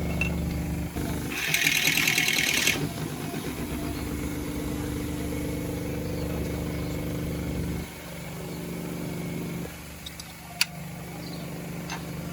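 An engine running steadily with a low hum. About a second and a half in, a loud rattling hiss cuts across it for roughly a second and a half. A sharp click comes near the end.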